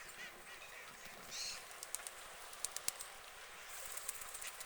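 Canada geese calling in short honks that rise and fall in pitch, tailing off after the first half-second. A brief higher call comes about a second and a half in, and a run of sharp clicks, the loudest sounds, follows between two and three seconds in.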